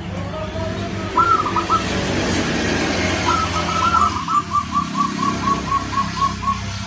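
Zebra dove (perkutut) cooing: a short coo phrase about a second in, then a long run of evenly spaced short notes, about four a second, lasting about three seconds. A steady background rumble and hiss runs underneath.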